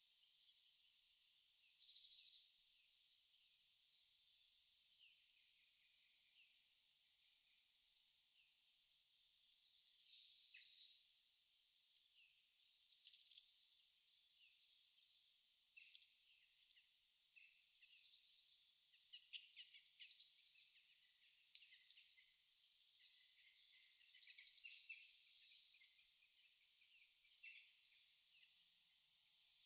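Songbirds chirping: one bird repeats a short, high trilled phrase every few seconds, and fainter chirps from other birds fill the gaps.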